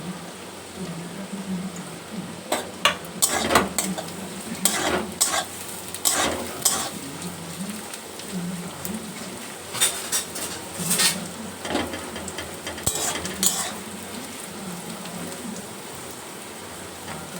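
Diced carrots frying in oil and ghee in a kadai with a steady sizzle, while a spatula stirs and scrapes against the pan in several bursts.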